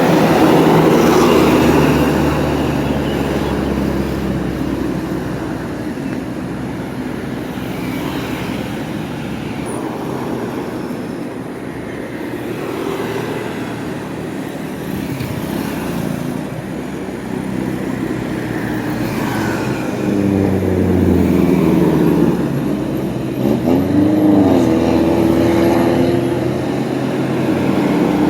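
Road traffic driving past: engines and tyre noise of passing vehicles, louder at the start and again in the last third, where one engine's pitch rises and then falls as it goes by.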